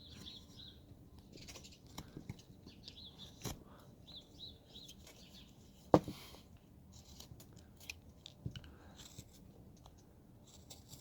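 Hand carving tool cutting wood in short slicing and scraping strokes, with many small clicks and one sharp knock about six seconds in. Faint chirping is heard in the first half.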